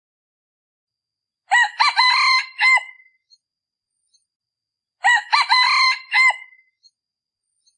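Male decoy rooster of the kind used to lure wild junglefowl, crowing twice, each crow about a second and a half long and about three and a half seconds apart.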